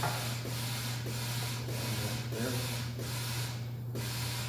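Compressed air hissing in quick pulses, about two a second with short breaks, from a tire inflator filling a truck tire, over a steady low hum.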